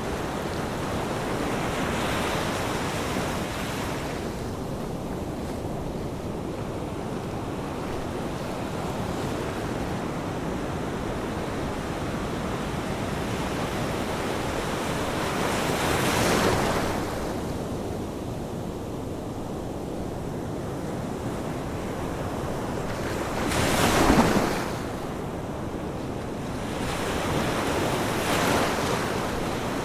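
Ocean waves surging and washing on a shore in a steady rush of surf, with louder breakers swelling and falling back about halfway through, again, loudest, near 24 seconds in, and once more near the end.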